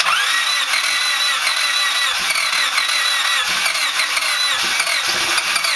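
Freshly rebuilt Honda D16Z6 1.6-litre four-cylinder running at a steady high idle just after its first start, through a loud aftermarket muffler. A high whine that wavers in pitch sits over the engine noise throughout.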